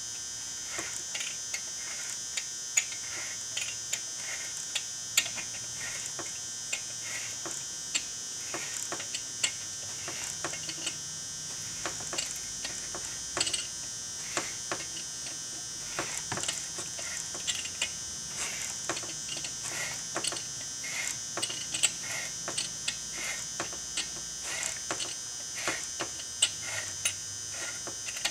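Helicoil thread-repair tap being turned by hand into the stripped spark plug hole of a Husqvarna 372 XP's aluminum cylinder, recutting the threads: irregular light clicks and ticks, about one or two a second.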